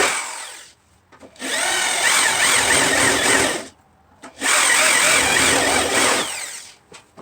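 A handheld power tool runs twice, about two seconds each time, with a short pause in between. Its pitch wavers up and down as it is loaded against the work.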